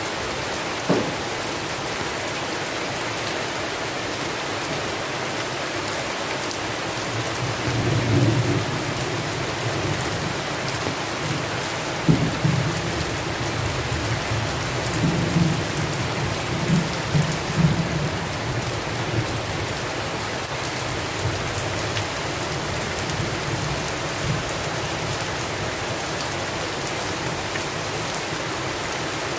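Steady rain hissing down in a thunderstorm. Thunder rumbles low through the middle in two rolls, the second opening with a sharp crack.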